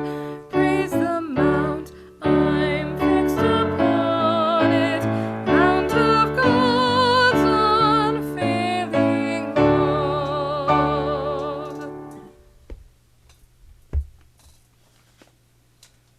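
A singer with a strong vibrato, accompanied by piano, sings the closing phrases of a sacred song, which fades out about twelve seconds in. A single soft knock follows a couple of seconds later.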